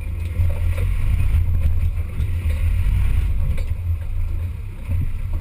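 Off-road 4x4's engine running under load, a steady heavy low drone, with a few faint knocks from the vehicle.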